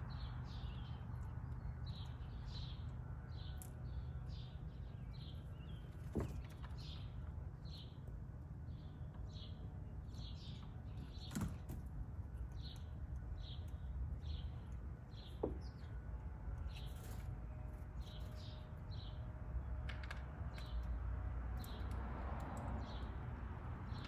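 A small bird chirping over and over in short, high notes, about two a second, with a few faint clicks. A steady low background rumble runs under it.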